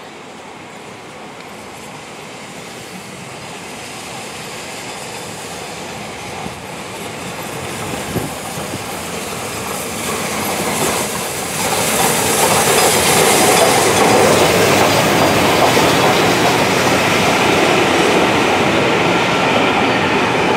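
Train approaching and running past, growing steadily louder, with wheels clattering over the rail joints; it is loudest in the second half.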